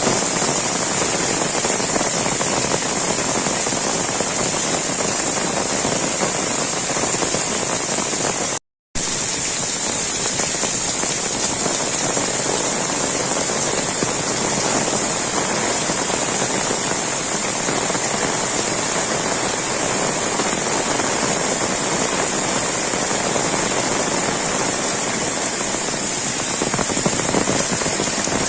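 Heavy rain falling steadily, a dense even hiss. It breaks off to silence for a split second about nine seconds in.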